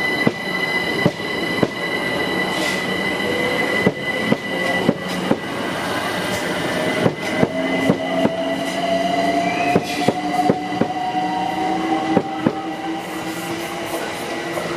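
Train moving through the station: its wheels click sharply and irregularly over rail joints, a high steady wheel squeal fades out about halfway, and a motor whine rises slowly in pitch.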